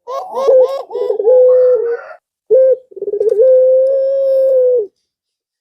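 Male puter pelung (domestic turtle dove) cooing: a quick run of short rolling coos, then one long, drawn-out coo about halfway through. It is the male's call to a female.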